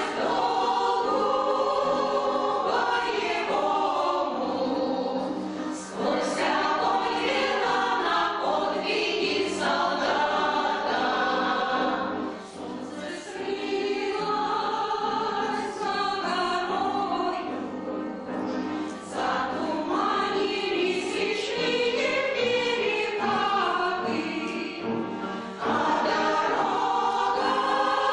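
Amateur choir singing a song in long sustained phrases, with brief breaks between phrases.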